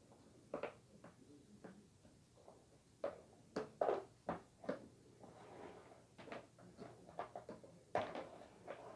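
Scattered light knocks and clunks of household things being handled and set down, about a dozen irregular hits, the loudest about four seconds in and near the end.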